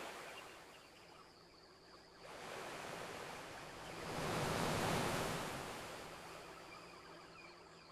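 Ocean waves washing onto a beach: a wave swells in about two seconds in, peaks near the middle and slowly recedes.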